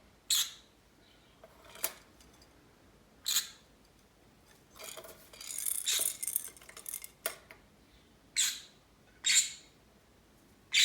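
Green-cheeked conure playing with its toy balls: a string of short rattles and sharp clicks, with a longer busy stretch of rattling and clicking in the middle.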